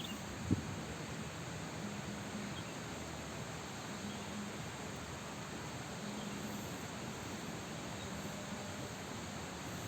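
Steady faint background hiss with a soft knock about half a second in and a faint low hum that comes and goes; no rocket whistle or bang.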